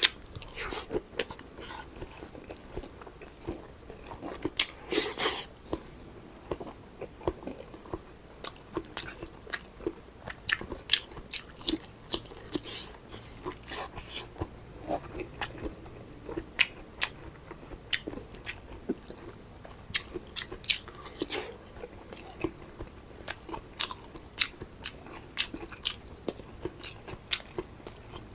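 Close-up eating sounds: a person biting and chewing food, with many short, irregular crunches and wet mouth clicks.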